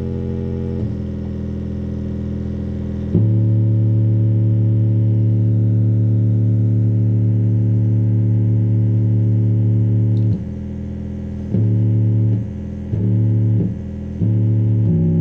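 Low synthesizer bass notes played loud through portable Bluetooth speakers. One note is held for about seven seconds, and near the end come several shorter notes with brief gaps between them.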